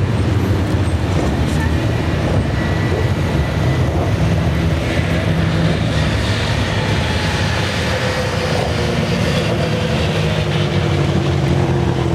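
Racing saloon car engines running, a steady loud mechanical noise with engine notes rising and falling.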